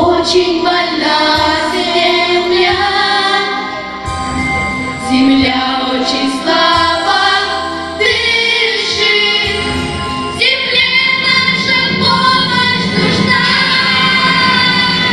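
A female vocal group singing a song together, with musical accompaniment.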